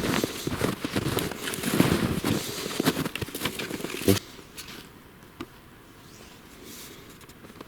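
Footsteps crunching and crackling through forest undergrowth. They come in a dense run for about four seconds and end with one sharp snap, then only a few faint clicks.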